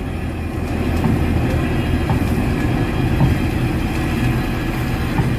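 GP7 diesel-electric locomotive's 1500-horsepower engine running with a steady low hum while it rides the turntable, with a few faint clicks.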